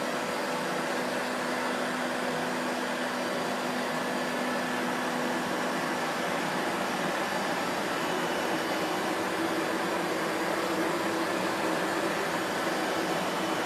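Vacuum cleaner motor running steadily: an even rush of air with a faint hum whose pitch shifts slightly about halfway through.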